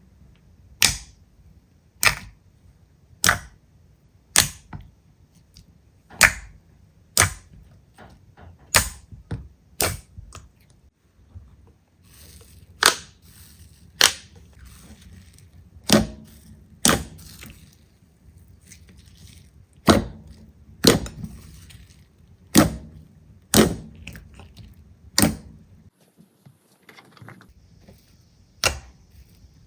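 Slime being pressed and poked, giving sharp pops about once a second, some in quick pairs, as trapped air bursts out.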